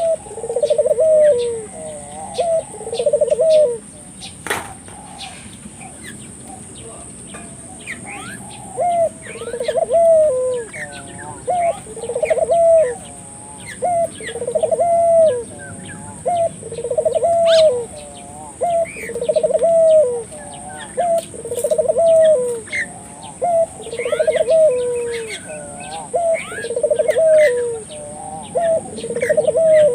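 A puter dove (collared dove) cooing vigorously, its low rolling coo repeated about once a second with a brief pause near the start. Faint chirps from small birds sound behind it.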